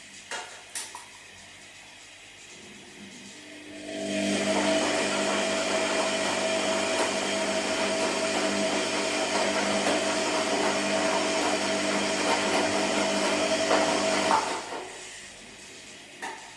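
Washing machine motor turning the drum for about ten seconds, a steady whine over churning noise, then stopping. A few light clicks come before it starts and again near the end, over a low hum.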